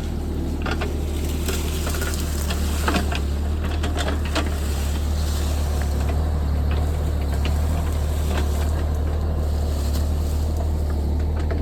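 A JCB JS30 Plus mini excavator's diesel engine runs steadily under working load, with scattered clicks and knocks from the machine at work.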